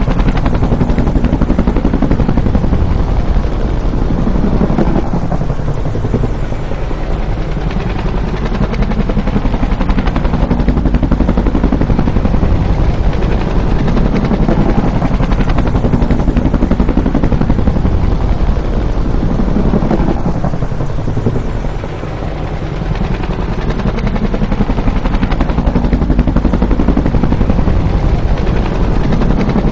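Bell UH-1 Huey helicopter with its two-blade main rotor beating in a rapid, steady pulse and engine running. It dips briefly in loudness about two-thirds of the way through, then swells again.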